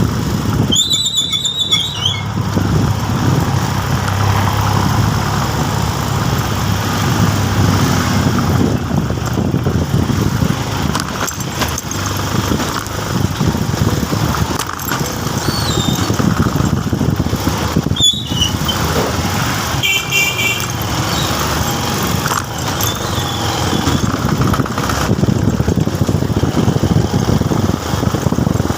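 Motorcycle under way: engine running with steady wind and road noise. A few brief high-pitched squeals cut through, about a second in and twice more past the middle.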